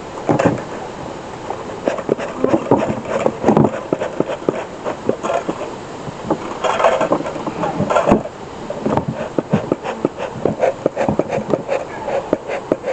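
Bee smoker being worked to relight it: short, weak puffs of its bellows among irregular clicks and knocks of the smoker being handled.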